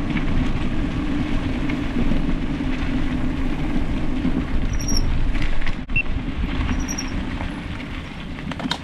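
Steady low rumble of wind buffeting the microphone mixed with bicycle tyres rolling along the trail, recorded while riding.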